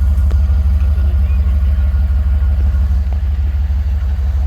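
Truck engine idling steadily close by, a low, evenly pulsing sound.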